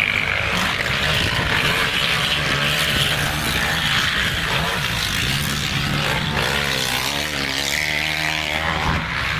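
Motocross dirt bike engines running and revving, their pitch rising and falling, with a wavering stretch of revs near the end.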